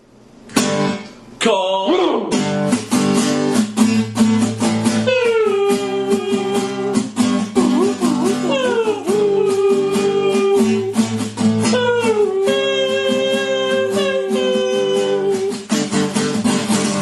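Acoustic guitar strummed in a steady rhythm, with three long held notes that each slide down in pitch and then hold: about five seconds in, about eight and a half seconds in, and about twelve seconds in.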